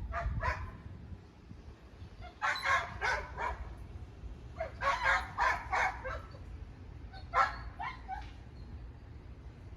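A dog barking in quick runs of several barks, in three main bouts with short gaps between them.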